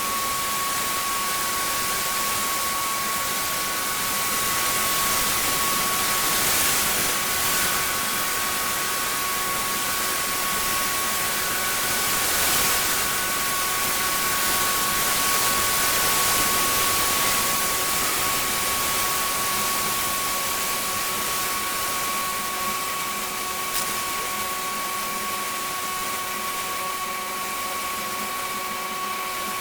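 Pressure washer spraying block paving: a steady hiss of the water jet with a constant high whine from the machine running underneath.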